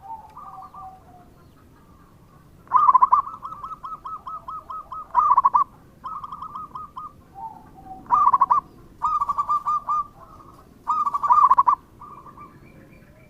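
Zebra dove (perkutut) cooing song: a string of rattling coo phrases, each made of fast repeated notes, several ending in a louder burst. This is the steady singing of a bird in full voice, as used to lure other perkutut into answering.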